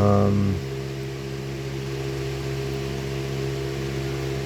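Steady mechanical hum made of several steady low tones over a faint hiss, with a short pitched sound in the first half-second.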